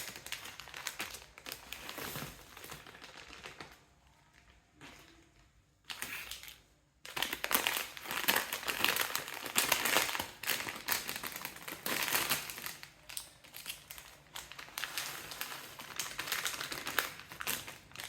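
Plastic snack packets crinkling and rustling in quick, clicky bursts as they are handled and opened, with a lull a few seconds in.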